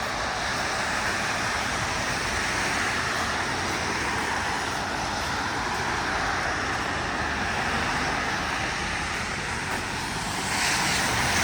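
Steady hiss of traffic and tyres on a wet city road in the rain, growing louder near the end.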